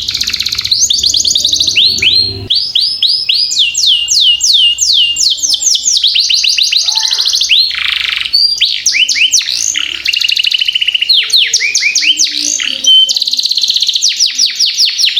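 Domestic canary singing a long, continuous rolling song of fast trills, each a quick run of repeated high downslurred notes, switching from one trill type to the next every second or two without a break.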